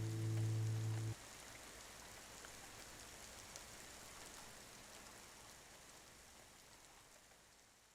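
A last acoustic guitar chord rings and is cut off abruptly about a second in. It leaves a steady hiss and patter of rain that slowly fades out.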